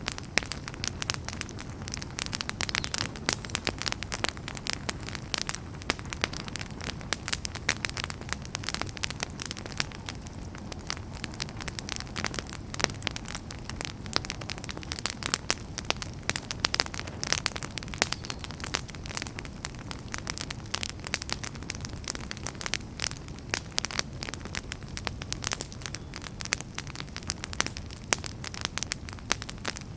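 Wood fire burning, with dense, continuous crackling and popping of firewood over a low steady rumble of the flames.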